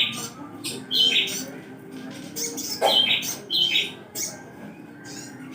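Sogon (a sunbird) calling: a quick run of short, sharp chirps and squeaky notes, about two a second.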